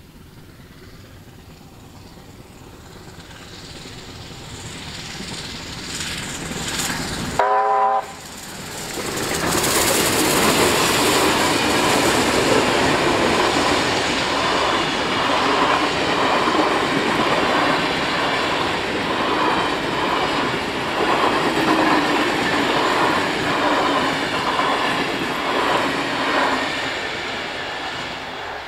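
A train hauled by steam locomotive 3801 with two diesel locomotives approaches and passes. A rumble builds, and about seven seconds in comes a short multi-note blast of the train's whistle or horn. Then the locomotives and carriages go by with a loud rumble and a steady clickety-clack of wheels, fading near the end.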